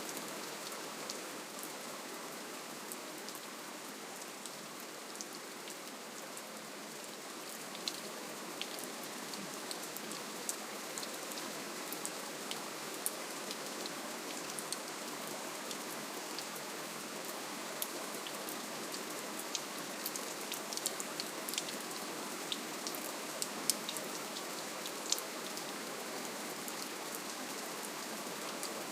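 Steady gentle rainfall, an even hiss with many small drops ticking sharply over it, the ticks more frequent in the second half.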